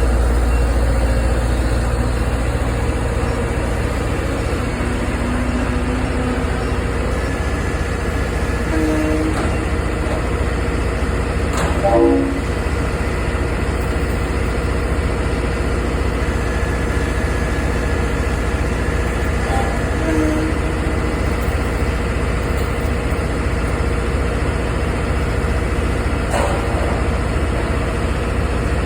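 Diesel locomotive engine running with a deep, steady rumble. A few short knocks come through it, the loudest about twelve seconds in.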